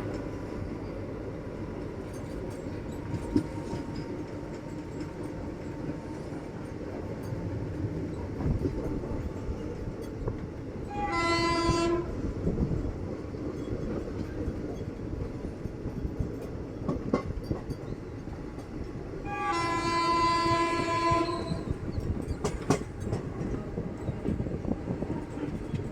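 A train running with a steady rumble and rail clicks. Its horn sounds twice: a short blast just before the middle and a longer one of about two seconds later on.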